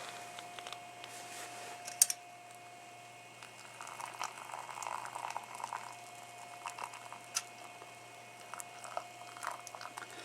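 Camp cookware being handled with hot water: a sharp metallic click about two seconds in, then light clinks and a liquid, bubbling sound.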